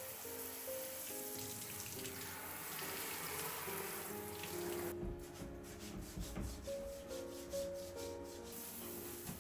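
Soft background music over a rubbing, scrubbing sound, then running water splashing for about three seconds from about five seconds in.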